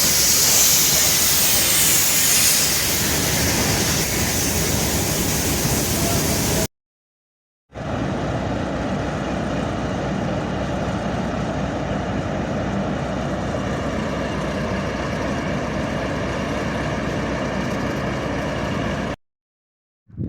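Railway sounds in two cuts. First a loud hissing rush, then a steadier engine hum from a Class 50 diesel locomotive, with a brief silence at the cut between them.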